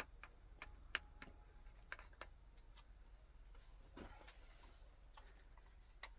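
Near silence with scattered faint clicks and light taps; a sharper click comes about a second in.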